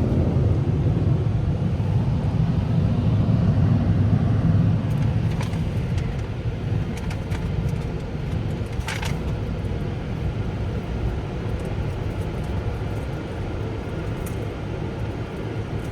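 Touch-free car wash dryer blowers running, heard from inside the car: a steady, rumbling rush of air that slowly grows quieter toward the end of the drying cycle.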